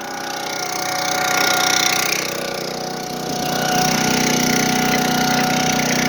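Chainsaw engine running steadily, its speed swelling and easing a little.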